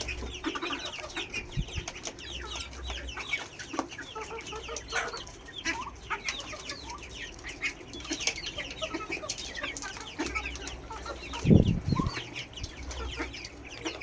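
Backyard poultry calling: many short, high peeps all through, with hens clucking and a louder low call about eleven and a half seconds in.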